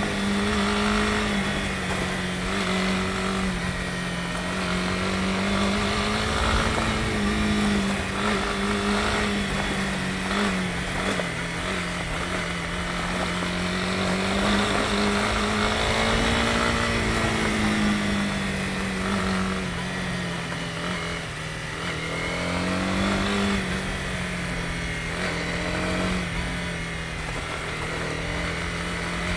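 Honda CB250R's single-cylinder four-stroke engine running under way, its pitch rising and falling gently with the throttle, with a few short upward sweeps in the later part, over a steady rush of noise.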